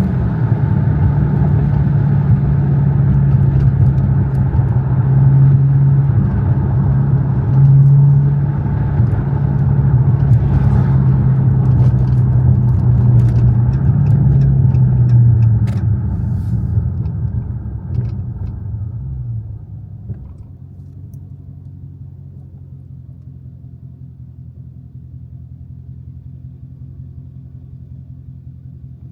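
Dodge Challenger Scat Pack's 6.4-litre (392) HEMI V8 droning under way, heard from inside the cabin, with road rumble. About two thirds of the way in the sound falls away and settles into a quieter, steady low hum, as the car slows to an idle.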